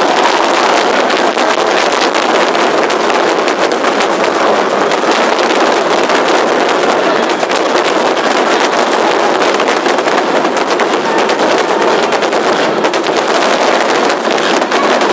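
Fireworks crackling: a dense, rapid, unbroken run of sharp pops.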